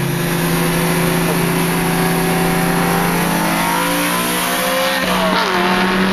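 BMW E90 M3's V8 with its exhaust cutouts open, accelerating under load with the engine note slowly rising. About five seconds in the pitch drops suddenly at an upshift, then the engine pulls on steadily.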